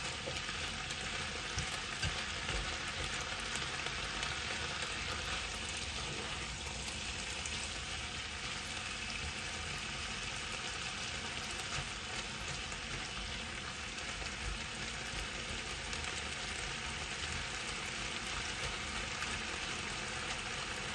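Chunks of chicken breast sizzling steadily as they fry in a pot, still only partly cooked, with a few light clicks now and then.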